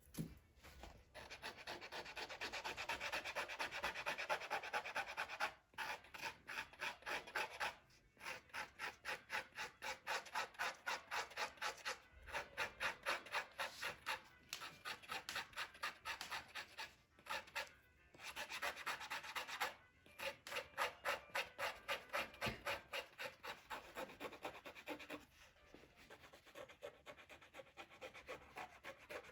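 Rapid back-and-forth scraping on Torah parchment, about three strokes a second, in runs broken by short pauses: dirt being scraped off the scroll's surface.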